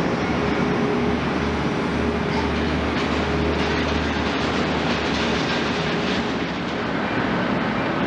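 Jet airliner engines running with a steady, loud rumble and rush across the airfield, with a faint high tone in the first second.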